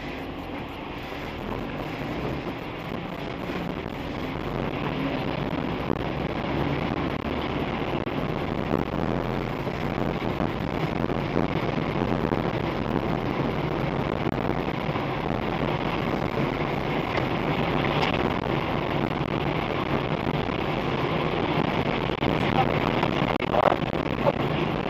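Steady rumble of vehicle and road noise with wind on the microphone, slowly growing louder, with a brief rising whine near the end.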